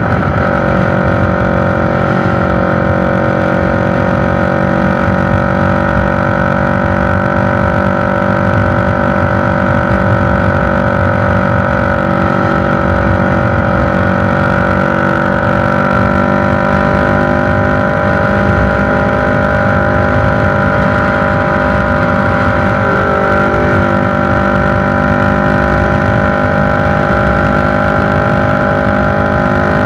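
CFMoto NK400's 400 cc parallel-twin engine running through an SC Project slip-on exhaust, held at a steady speed with only slight changes in pitch. The engine is still in break-in, so it is not revved hard.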